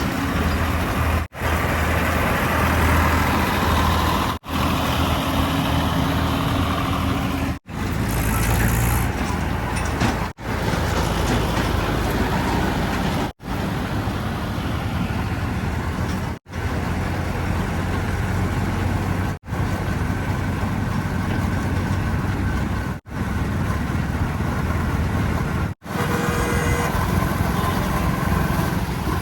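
Heavy diesel engines of earth-moving vehicles (backhoe loader, tractors and tipper trucks) running, with the sound breaking off sharply about every three seconds as one short stretch of engine noise gives way to the next.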